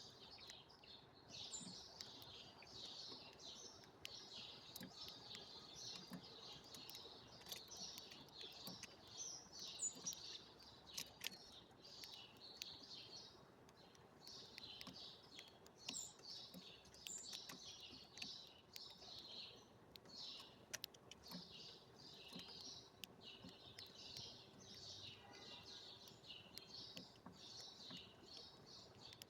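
A flock of small birds chirping and twittering continuously, many calls overlapping, with a few sharp clicks among them.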